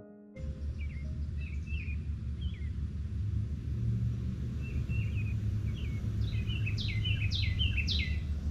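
Songbirds chirping over a steady low rumble, with a quick run of clear, downward-slurred calls near the end.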